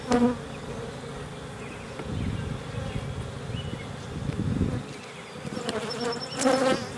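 Many Carniolan honey bees buzzing steadily around an opened hive, with a few light knocks near the end.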